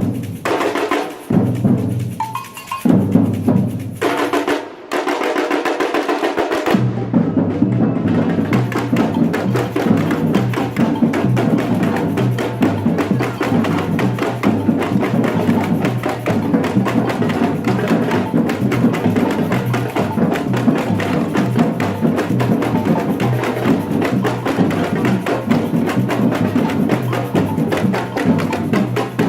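Batucada samba percussion ensemble playing drums. It plays in short stop-start phrases at first, then settles into a steady, driving groove from about seven seconds in.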